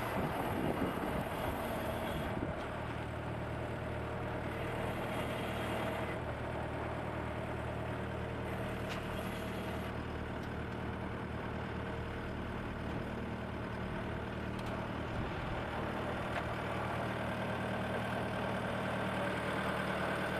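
Skid steer engine running at a steady speed.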